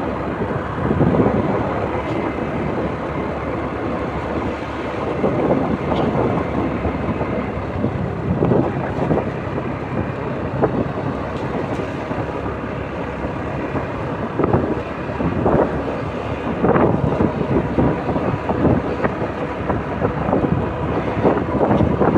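Wind buffeting the microphone in uneven gusts over a steady vehicle rumble, as on a moving motorbike.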